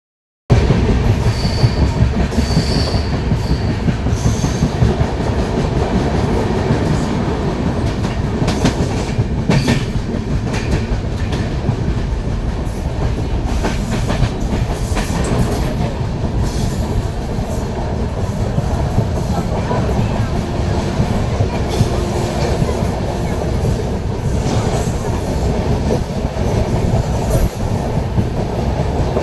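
Moving passenger train running on the rails, a steady heavy rumble with wheel clatter over the track. There are a few brief high-pitched wheel squeals in the first few seconds.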